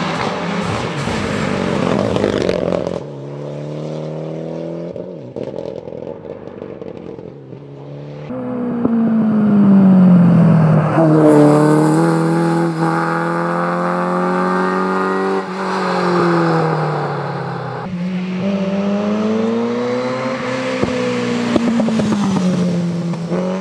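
Rally cars at full speed going past one after another, each engine revving up and dropping back through gear changes, with abrupt switches from one car to the next.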